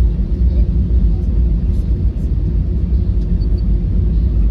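Airbus A321 jet engines running, heard inside the passenger cabin as a loud, steady low rumble with a faint steady hum.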